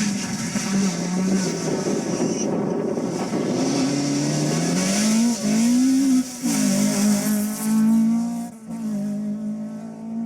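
Rally car engine revving hard: the pitch rises and falls several times through gear changes, then holds high and steady for the last few seconds.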